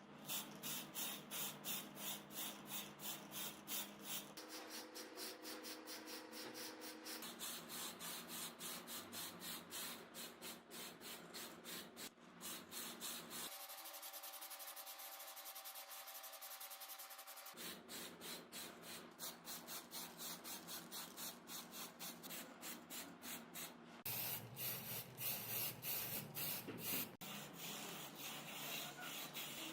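Rapid back-and-forth abrasive rubbing strokes on a hard surface, several a second, in short stretches whose tone changes every few seconds; a smoother, steadier stretch of a few seconds comes in the middle.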